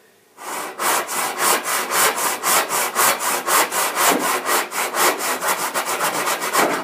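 Hand saw cutting through old plaster cornice molding, in quick, even back-and-forth strokes that start about half a second in, to get a straight cut for tracing the cornice profile.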